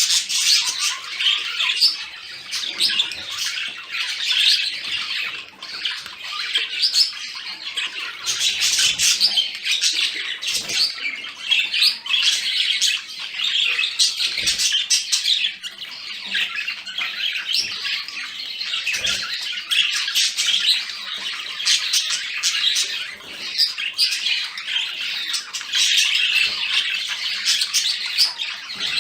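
Budgerigars chattering without pause: a dense stream of quick warbles, chirps, clicks and squawks.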